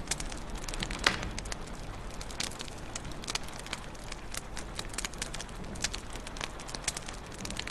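Wood fire crackling in a fireplace: irregular snaps and pops over a steady low hiss and rumble, with one louder pop about a second in.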